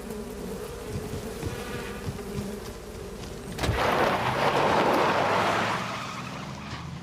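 Swarm of honeybees buzzing, first as a steady hum, then swelling into a loud rushing buzz about four seconds in that lasts around two seconds before easing off.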